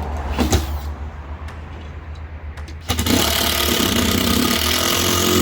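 A motor starts suddenly about three seconds in and runs loudly and steadily, over a low hum that is there throughout; a short knock comes about half a second in.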